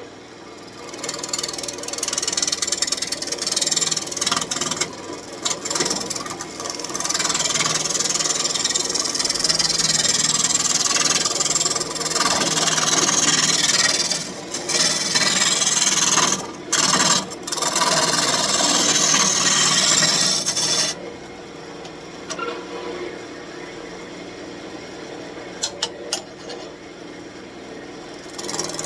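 Turning tool cutting a spinning birch branch on a wood lathe, rounding it: a loud, scraping hiss over the lathe's steady hum, broken briefly a few times as the tool is lifted. About two-thirds of the way through the cutting stops and only the lathe runs on.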